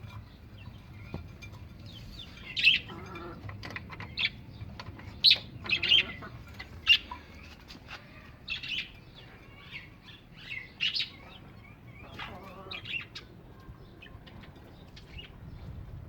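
Caged birds giving many short, scattered chirps and calls, some sharp and high.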